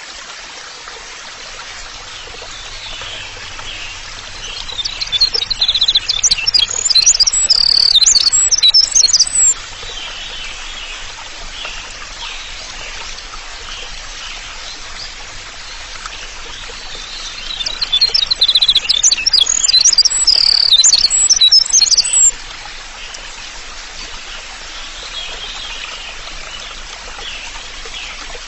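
Songbird singing in two loud bursts of about five seconds each, fast and varied high notes, over a steady background of running water with faint chirping.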